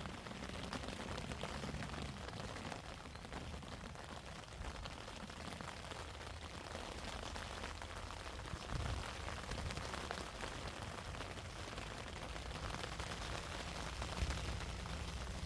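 Steady rain falling, heard as a constant hiss full of fine drop ticks, with a low, uneven rumble of wind gusting on the microphone.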